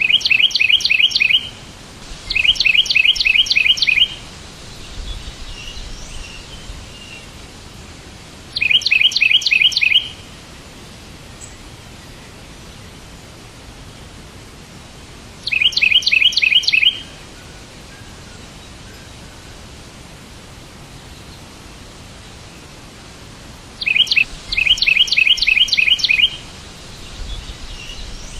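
A songbird singing a fast trill of rapidly repeated chirps. It comes in about six loud bursts of one to two seconds each, spaced irregularly, with fainter calls between them over a steady hiss.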